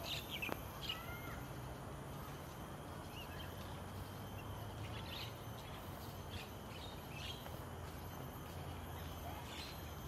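Birds chirping in short, high calls scattered through, loudest and busiest in the first second, over a steady low background rumble.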